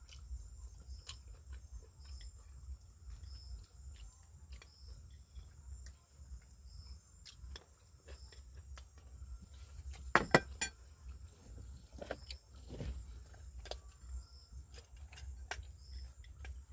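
Scattered clinks and taps of cutlery on a plate during a meal, with a sharper burst of several clinks about ten seconds in. Insects keep up a steady high drone and small repeated chirps throughout.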